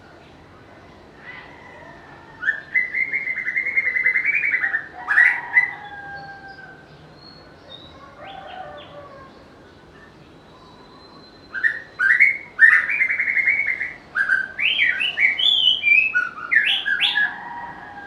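White-rumped shama singing: two bursts of rapid, varied whistled phrases, the first starting about two and a half seconds in and a longer one starting about twelve seconds in.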